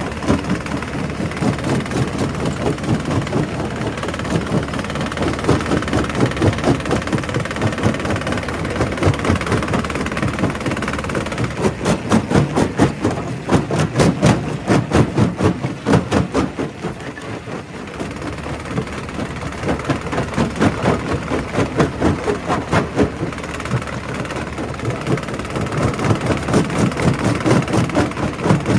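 A quarry's primary rock crusher crushing stone: a continuous heavy rumble full of rapid knocks and cracks as rocks break. The knocking is densest about halfway through, eases for a moment, then picks up again.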